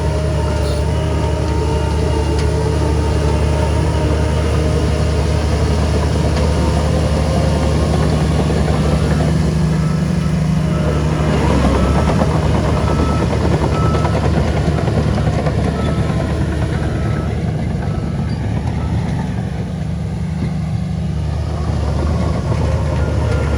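Heavy diesel engine of earthmoving machinery running steadily, its note shifting briefly about halfway through.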